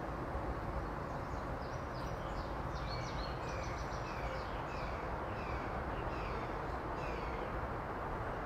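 A small bird calling a string of short, high, falling notes, about two a second, starting about two seconds in and stopping a second or so before the end. Under it runs a steady rushing background noise.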